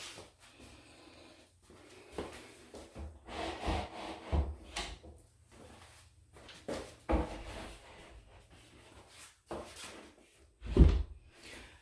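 Baseboard trim being slid and pushed back into place against the wall: scraping and rubbing with several knocks, the loudest thump near the end.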